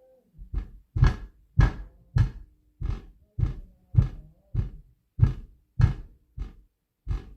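Heavy stomping on a floor: a steady run of about a dozen evenly spaced thumps, a little under two a second.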